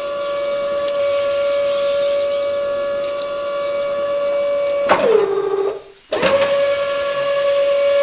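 Small electric motor whining steadily at one pitch; about five seconds in it slows with a falling pitch, stops for a moment, then spins back up to the same steady whine.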